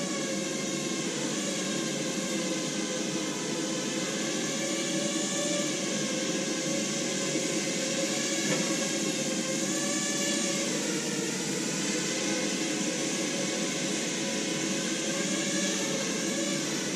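Quadrotor's electric motors and propellers whining in flight. The pitch wavers slightly up and down as the motor speeds change, with a brief dip about ten seconds in.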